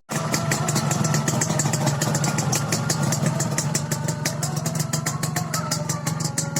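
Suzuki Satria two-stroke motorcycle engine idling through an AHM aftermarket exhaust: a steady low note with a rapid, crackly ticking over it.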